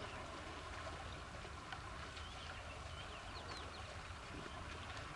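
Birds chirping faintly in short, wavering high notes, in a cluster of calls a couple of seconds in, over a steady low rumble and hiss of background noise.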